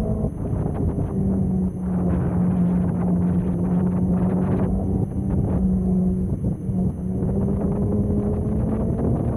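Motorcycle engine running under way, with wind rushing over the microphone. The engine note drops a little about a second in, holds steady for several seconds, then climbs again near the end as the throttle is opened.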